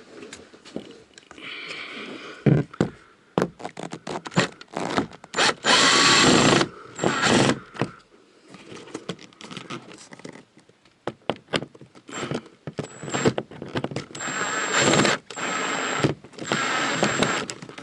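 Plastic interior trim around an RV roof air conditioner being pried loose and handled: a run of clicks, knocks and scrapes, with two longer, louder stretches of rasping noise, one about a third of the way in and one near the end.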